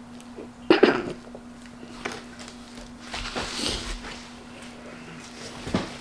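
Close-up eating sounds of a man chewing a mouthful of cheeseburger, with a sudden loud bump about a second in. A faint steady hum runs underneath.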